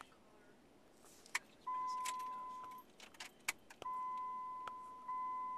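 A vehicle's electronic warning chime sounding in three long, steady beeps, the last two almost running together, with keys clicking and rattling in between.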